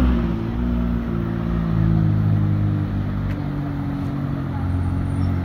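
McLaren supercar's twin-turbo V8 running at low revs as the car creeps away from the kerb: the revs settle slightly right at the start, then it holds a steady low engine note.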